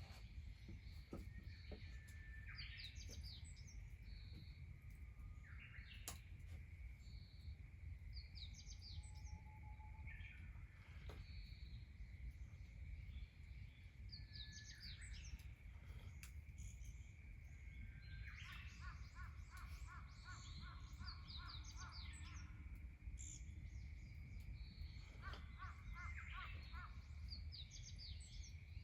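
Wild birds calling and chirping, with several different short high calls and two quick runs of rapidly repeated notes in the second half, over a faint low rumble. A few sharp clicks are scattered through.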